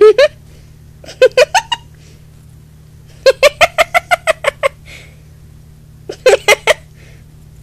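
A person laughing in four bursts of quick, high-pitched pulses, the longest in the middle, over a steady low hum.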